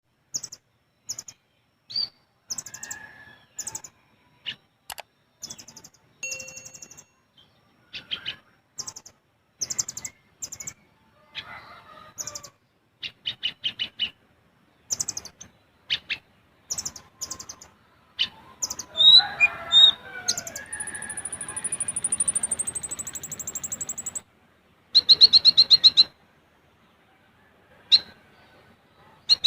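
Ninja sunbird (kolibri ninja) singing: quick series of high, thin chirps and rapid stuttering trills, broken by short pauses. About twenty seconds in comes one long, very high whistle that falls slightly.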